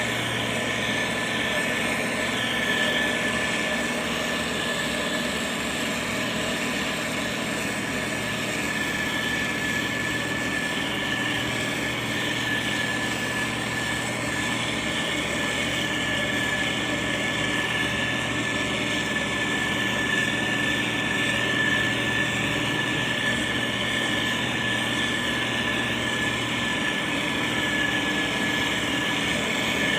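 Motor grader's diesel engine running steadily, with a steady high-pitched whine above the low engine hum.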